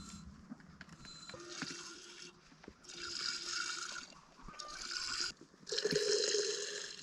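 Dairy goat being hand-milked: about four squirts of milk hitting a container, each under a second to about a second long, the last near the end the loudest.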